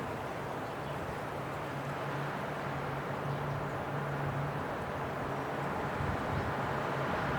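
Winter wind blowing steadily, an even rushing noise without sharp gusts, with a faint low hum underneath.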